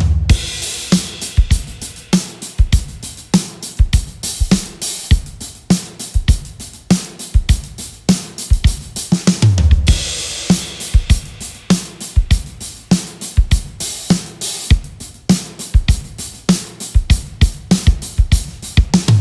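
A drum kit playing a steady groove of kick drum, snare and hi-hat. Cymbal crashes land with the kick at the start and again about halfway through.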